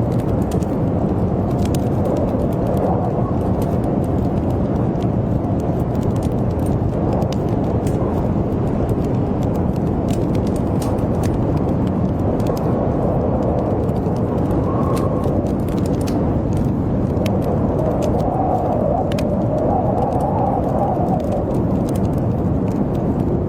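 Blizzard wind blowing steadily with a howl that swells now and then, over the scattered pops and crackles of a wood fire.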